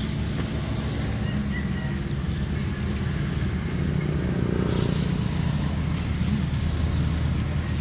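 Car running on the road: a steady low engine hum with road noise.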